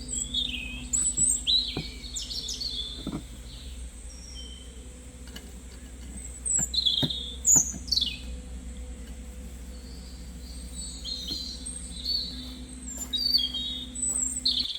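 Small birds chirping in short, high, sweeping notes, in several clusters, over a steady low hum.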